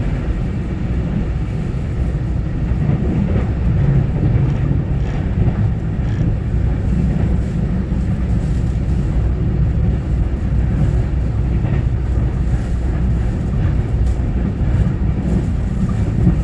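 Electric multiple-unit commuter train (Taiwan Railway EMU900 series) running at speed between stations, heard from inside the carriage: a steady low rumble of wheels on rail and running gear, with faint scattered ticks.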